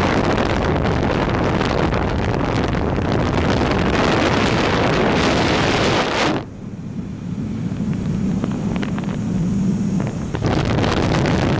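Wind buffeting the microphone on a moving motorbike, loud and rushing. About six seconds in it drops away suddenly to a quieter low rumble with a steady hum, then comes back near the end.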